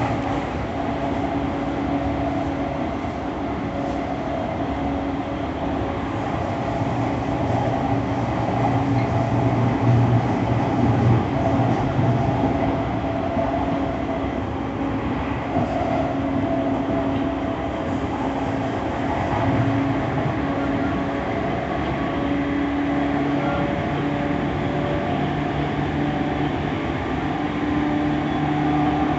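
E231-1000 series electric train running, heard from inside the car: a steady rumble of wheels on rail with humming motor tones that shift in pitch and come and go, a little louder about eight to twelve seconds in.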